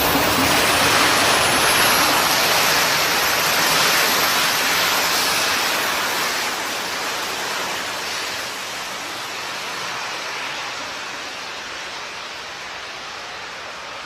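Small jet turbine engines of a jet suit running, a steady loud roar with a high whine that slowly fades away.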